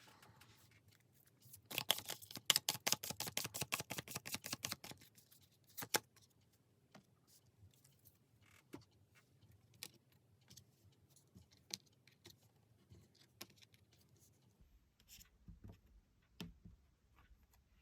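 Tarot cards being shuffled: a fast run of papery clicks for about three seconds, then scattered single clicks and taps as the cards are handled.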